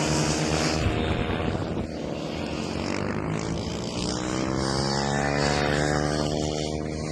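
Engines of 110cc mini racing motorcycles running on the track. The pitch climbs steadily for a few seconds, then drops away near the end as the bikes rev up and ease off.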